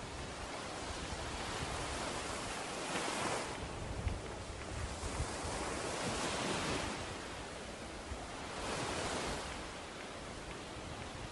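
Ocean surf breaking on a beach, a steady wash that swells three times as waves come in, with wind rumbling on the microphone.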